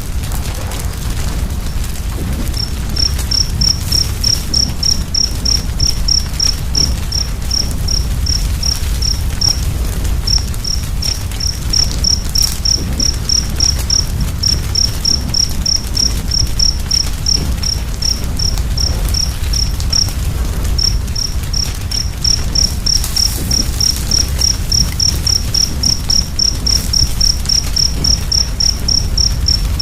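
Wood fire burning with a steady low rumble and faint crackles, while a cricket chirps high and evenly at about three chirps a second, starting a couple of seconds in and pausing briefly twice.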